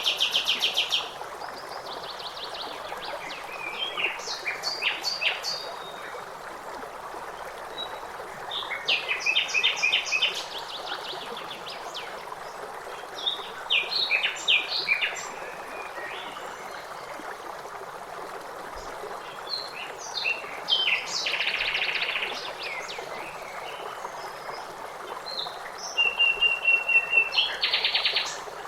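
Songbirds singing short phrases of rapid trills and chirps that recur every few seconds, over the steady rush of a stream.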